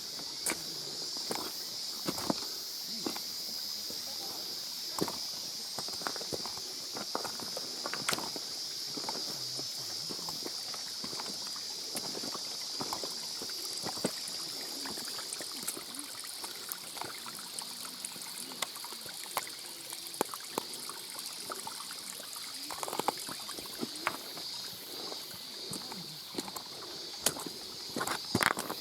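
Stream water running along a wet mountain trail, with steady footsteps on the rocks and scattered sharp clicks. Some of the clicks are the clattering of an old camcorder's loose monitor.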